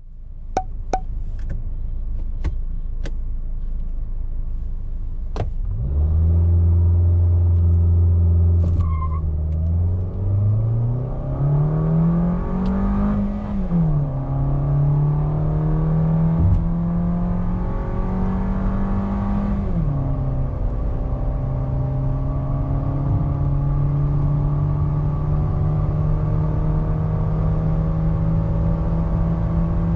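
Suzuki XL6's 1.5-litre four-cylinder engine heard from inside the cabin during a full-throttle acceleration run. A few sharp clicks come first, then the engine revs up and holds briefly. The revs then climb and drop back twice as the automatic gearbox shifts up, about 13 and 20 seconds in, before settling into steady running with wind noise around the car.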